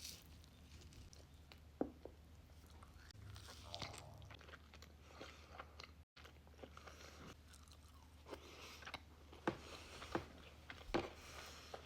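A person biting into and chewing crunchy cookies close to the microphone. There is one sharp crunch about two seconds in and a cluster of crunchy bites near the end.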